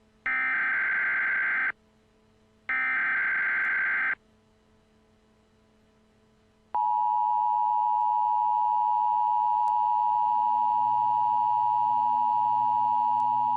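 Emergency Alert System broadcast tones: two screeching digital data bursts of about a second and a half each, a second apart, then a pause. About seven seconds in, the steady two-tone attention signal starts and is held.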